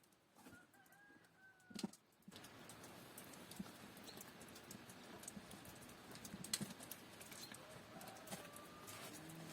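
A rooster crowing faintly, one call of about a second and a half, followed by a low rustling haze with scattered sharp clicks and another faint call near the end.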